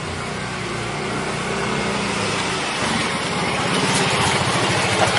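Motorcycle engine running and growing gradually louder as it approaches, its firing beat becoming distinct in the second half.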